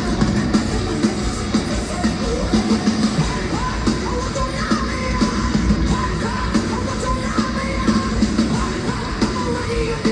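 Heavy metal band playing: pounding drums and distorted guitars under a singer's voice, with sung and yelled lines.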